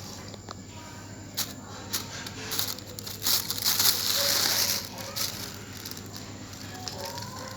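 Scattered clicks and rustling from a pet parrot, with a loud hiss lasting about a second and a half midway and a few faint short chirps near the end.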